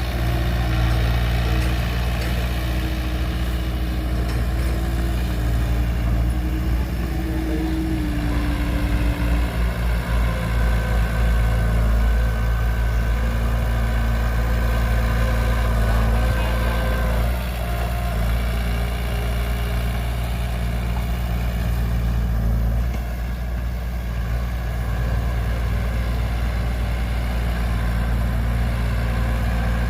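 Heavy diesel engine of construction machinery running steadily with a deep hum, its note shifting slightly now and then.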